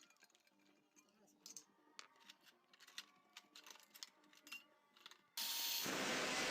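Faint scattered clicks and taps, like small metal parts or tools being handled. About five seconds in, a loud, steady, hissing machine noise starts suddenly.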